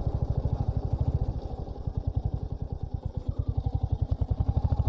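Royal Enfield Hunter 350's single-cylinder engine running as the motorcycle is ridden, a steady rapid beat of exhaust pulses that eases off for a moment about two seconds in and picks up again.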